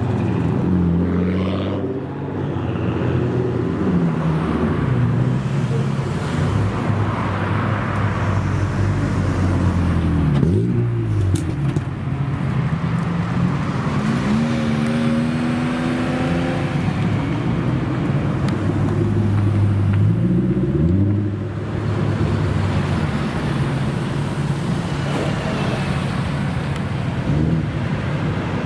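Engines of modified Japanese cars running and accelerating, one after another, with the pitch rising and falling as they rev and pass. There are sharp rising sweeps about ten, fourteen and twenty seconds in.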